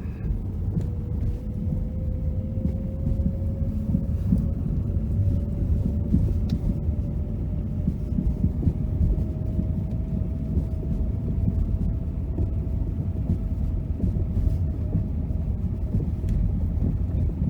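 Lada Vesta Cross driving on a rough road, heard from inside the cabin: a steady rumble with frequent short clunks and rattles from the suspension over bumps, which the owner finds too loud. A faint whine runs through it, rising slightly in pitch over the first several seconds, then holding steady.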